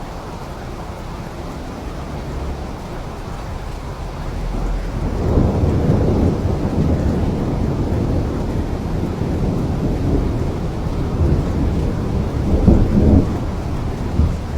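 Steady rain with a long, rolling thunder rumble that builds about four seconds in and swells again near the end.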